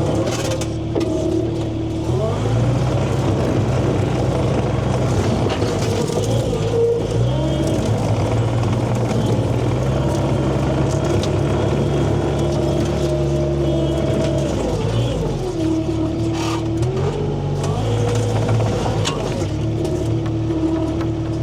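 An engine running, sped up from idle about two seconds in, held there, dropped back about fifteen seconds in, then briefly sped up again, with scattered metallic clanks over it.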